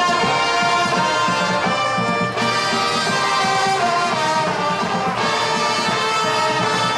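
Elementary-school marching band playing, brass carrying a melody in held notes.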